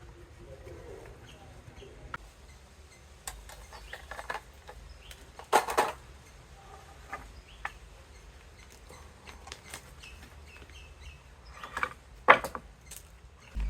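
Irregular knocks and clicks of wooden boards being handled and worked while a hive box is assembled, with a couple of louder knocks near the middle and a sharp one near the end. Faint bird chirps in the background.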